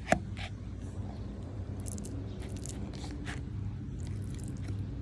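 Quiet ASMR sounds made by hand: a sharp click just after the start, then a few scattered faint squishy crackles over a steady low background rumble.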